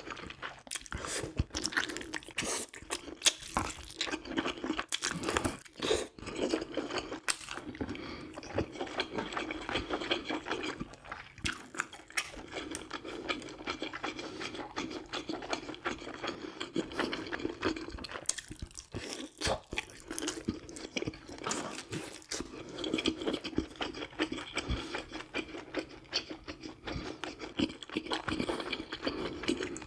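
A person eating close to the microphone: steady chewing with crunchy bites and many short, sharp mouth clicks.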